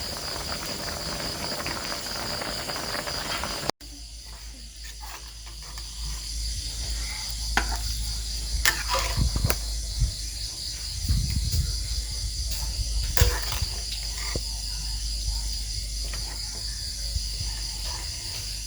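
A steady, high-pitched pulsing chorus of insects such as crickets or cicadas, with scattered clicks and knocks. It breaks off abruptly about four seconds in and resumes at once, over a low rumble.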